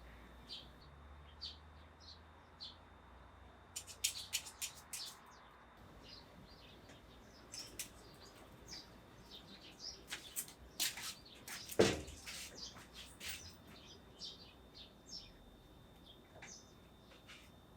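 Small birds chirping in short, scattered calls, with one sharp knock about twelve seconds in.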